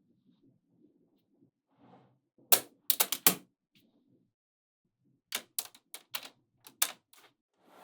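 Small magnetic balls snapping together with sharp clicks: a quick cluster of about four clicks about two and a half seconds in, then a run of about seven more from about five seconds in.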